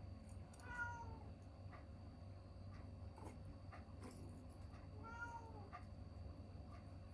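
A cat meowing twice, once about a second in and again about five seconds in, each call arching up and falling away. Faint scattered clicks sound between the calls.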